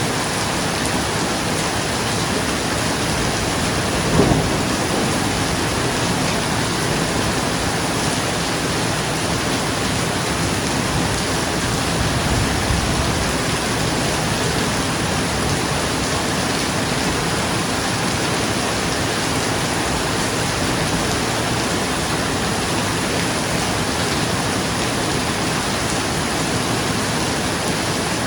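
Steady heavy rain pattering on a roof, with a short thunderclap about four seconds in and a softer low rumble of thunder around twelve seconds.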